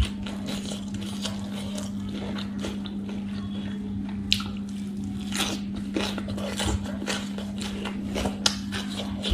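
Close-up chewing and biting of crisp leafy salad greens, with many short sharp clicks and crunches at irregular moments and the handling of lettuce leaves. A steady low hum runs underneath.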